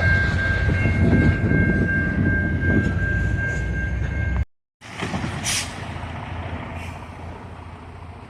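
A train rolls past, its loud rumble carrying a steady high squeal. The sound cuts out about four and a half seconds in, and a quieter rumble follows with a short hiss about a second later.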